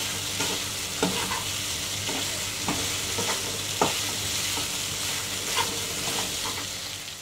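Cubed chicken and green chillies sizzling in oil in a kadai while a slotted metal spatula stirs them, with scattered clicks and scrapes of the spatula against the pan. The sound fades down near the end.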